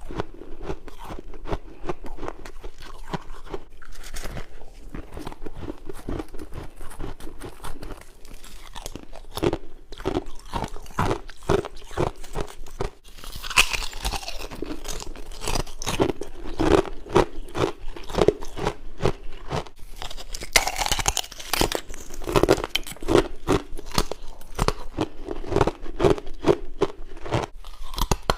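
A person biting and chewing frost ice close to the microphone: dense, rapid crunching, with louder, harsher stretches about halfway through and again about three-quarters of the way in.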